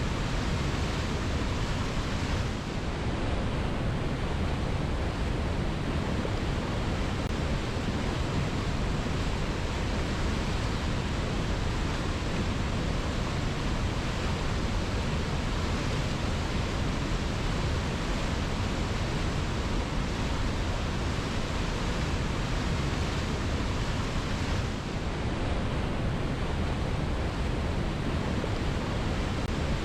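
Waterfall: water cascading over rocks, a steady, unbroken rushing noise heaviest in the low end.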